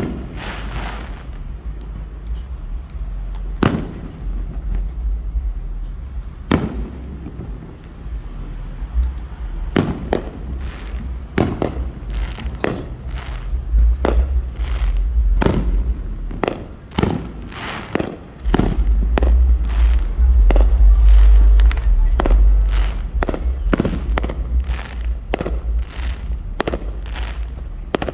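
Fireworks exploding as a string of sharp bangs, a few seconds apart at first and then coming thick and fast from about ten seconds in, over a steady deep rumble.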